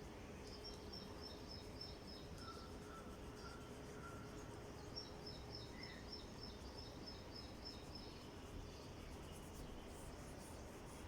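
Faint background noise with a steady low hum, over which small birds chirp in quick high-pitched runs: one run early, a lower series of notes a couple of seconds in, and another long run from about five seconds to past eight.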